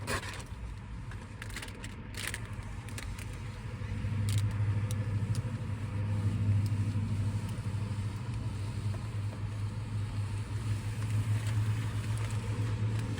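A steady low motor hum, like an engine running, growing louder about four seconds in, with a few light clicks and rustles in the first couple of seconds.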